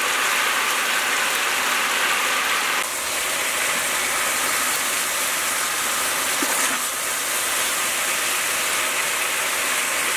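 Steady hiss of water spinach sizzling in a hot wok.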